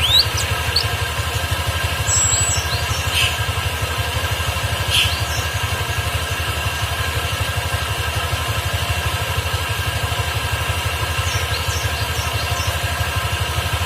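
A steady low pulsing mechanical hum, like a motor idling, runs throughout. Over it a canary gives a few short, sparse chirps in the first five seconds and again faintly near the end.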